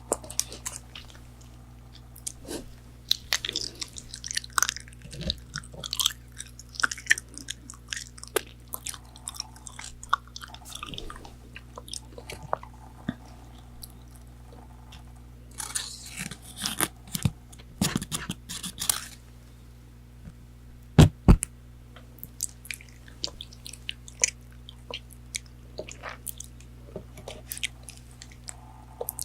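Close-miked chewing and crunching of McDonald's chicken nuggets, with crisp fried coating crackling between the teeth and wet mouth clicks. There are denser bursts of crunching, and two loud sharp clicks about two-thirds of the way through.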